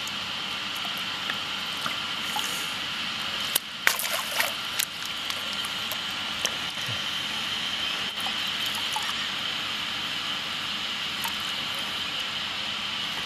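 Water splashing and sloshing as a large orange fish is handled at the surface by hand, with a short flurry of sharp splashes about four seconds in, over a steady outdoor hiss.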